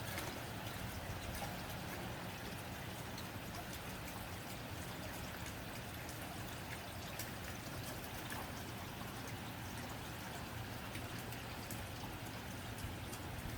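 Steady rain on a tin roof: an even patter made of many small drop ticks.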